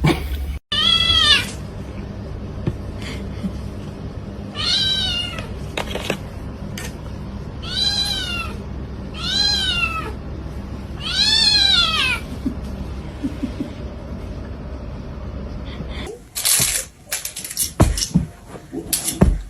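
A cat meowing five times, a few seconds apart, each call rising and then falling in pitch, over a steady low hum. Near the end the hum stops and there are several sharp clicks or knocks.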